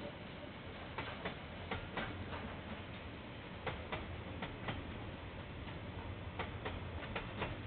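A KiwiRail train passing: its wheels click over rail joints, mostly in pairs a third of a second apart, over a steady low rumble.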